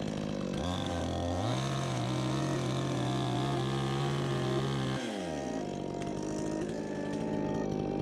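Two-stroke chainsaw engine revved up from idle about half a second in, held at high speed for several seconds, then released and winding back down to idle.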